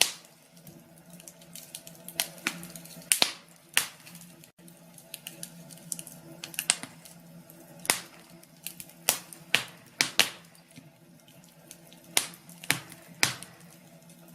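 Wood fire crackling in a fireplace: irregular sharp pops and snaps, a few loud ones clustered together, over a soft steady hiss.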